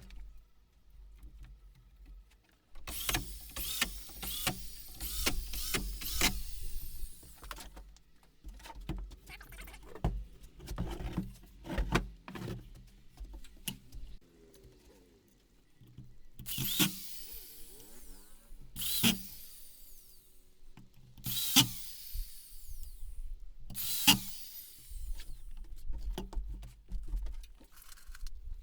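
Power drill running in short bursts, about five times, each ending in a falling whine as the motor spins down. Clicks and knocks of handling wood and tools come in between.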